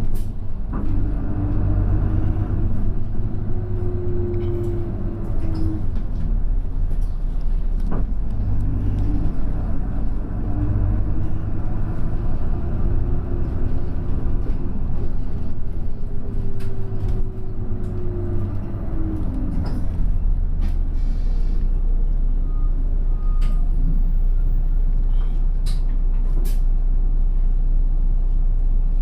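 Route bus ride heard from inside the cabin: a steady low engine and road rumble, with a drivetrain whine that rises and falls twice as the bus gathers speed and eases off. Occasional sharp rattles and clicks from the body.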